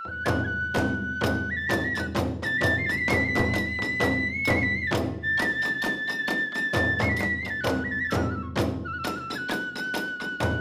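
Hiroshima kagura music: a bamboo flute plays a held melody that steps up and down in pitch over steady drum and hand-cymbal beats, about three a second.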